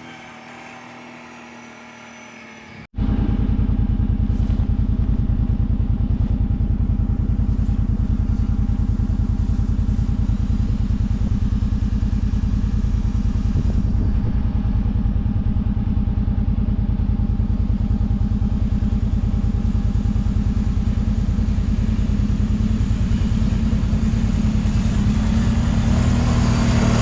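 Kawasaki Brute Force 750 ATV's V-twin engine running while riding, heard faintly for about three seconds. After an abrupt cut it is loud and close, a steady low throb that rises a little in pitch near the end as it speeds up.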